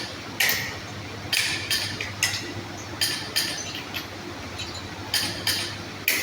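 Metal hand tools and engine parts clinking together in a string of sharp, ringing strikes, some in quick pairs, about one every half second to second, over a steady low hum.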